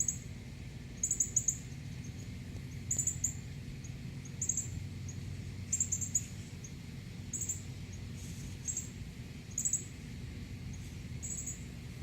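A bird chirping: short, high chirps in twos and threes about every second and a half, over a steady low background hum.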